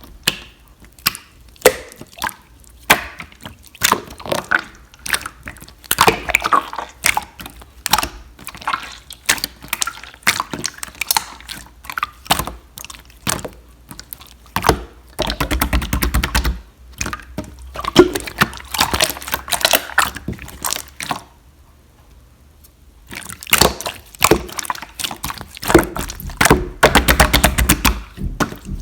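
Red clear slime being squished and stretched by hand: quick runs of sticky, wet clicks and pops, with a short pause about three quarters of the way through.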